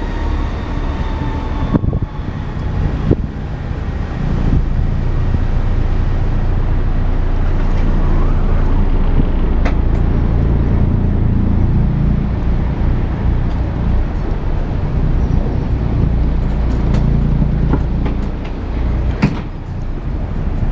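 A city bus driving, heard from inside the passenger cabin: a steady low engine and road rumble that swells about three to four seconds in, with a few light rattles and clicks.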